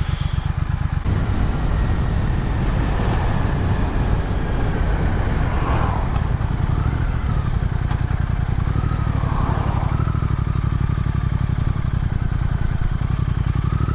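Motorcycle engine running steadily while riding along a road, a dense, even low sound with no breaks.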